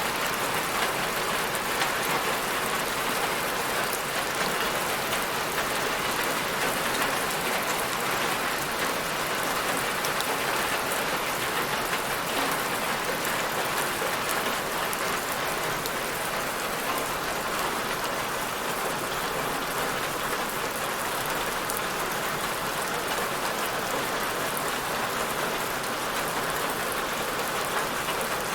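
Steady rain falling on a surface, an even hiss dense with fine pattering drops that holds level throughout.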